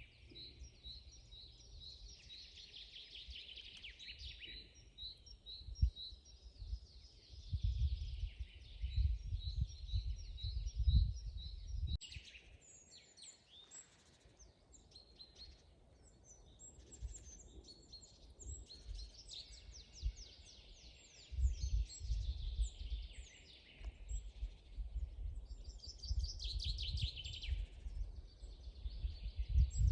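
Several wild songbirds singing and chirping at once, with quick repeated notes and trills overlapping. Bursts of low rumble come and go beneath them, once in the first half and again through the last third.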